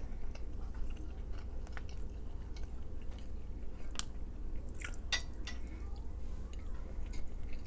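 A person chewing food close to the microphone: scattered soft mouth clicks and a few sharper crunches, over a steady low hum.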